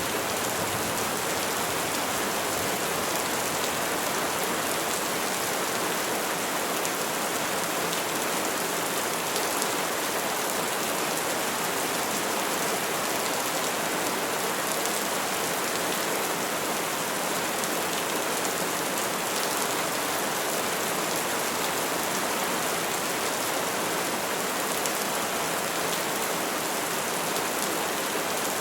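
Steady, even rainfall on trees, with no thunder.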